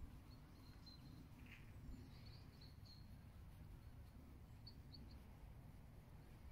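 Near silence with a low steady rumble, and faint short bird chirps a few times, the clearest about two and a half seconds in and near five seconds in.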